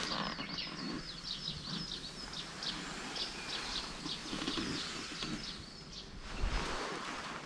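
A songbird singing a long, fast run of short high chirping notes that stops about six seconds in, over a steady outdoor background hiss.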